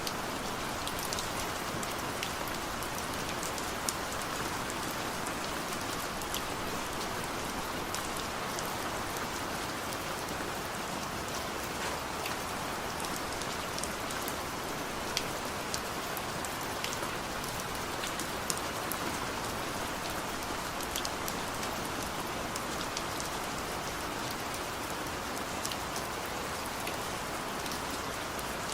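Steady rain falling, an even hiss with many distinct drops ticking on a surface throughout.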